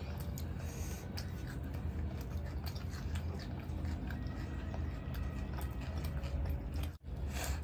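Close-up eating sounds: chewing naan and masala chaap, with small wet squishes and clicks as bread is torn and dipped in gravy, over a steady low hum. The sound drops out briefly twice near the end.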